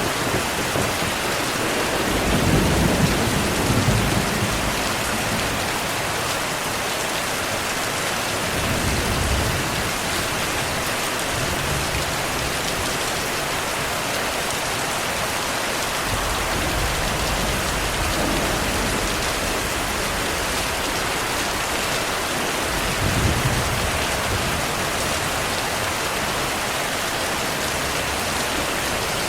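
Heavy rainfall with a steady hiss, under several low rumbles of thunder; the strongest rolls come a few seconds in and again about two-thirds of the way through.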